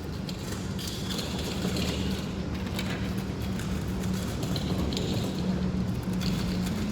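Steady machine hum with a low droning tone, over a constant noisy background.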